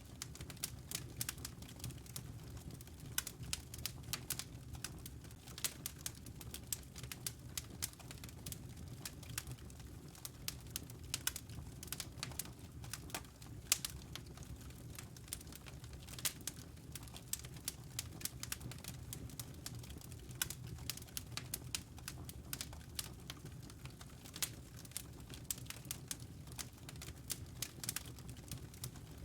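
Wood fire crackling in a fireplace: dense, irregular sharp pops and snaps over a low steady rumble of the flames.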